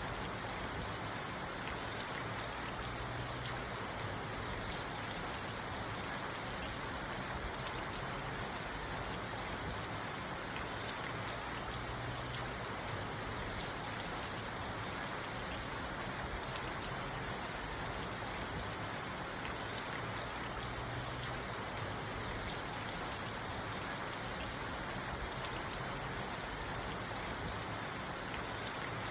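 Steady rain falling on a parked car, heard from inside the car.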